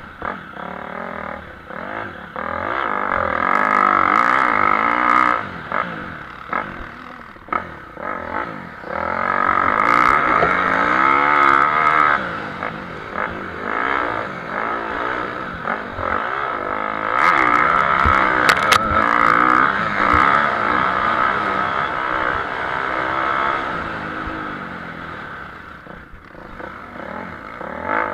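Motocross motorcycles racing, engines revving up and falling back as they shift and ride the track, the sound swelling and fading several times as bikes pass, with a few sharp clicks.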